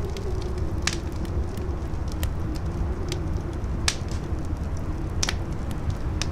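Campfire crackling, with sharp pops a second or so apart, over strong howling wind that rumbles low and wavers slightly in pitch.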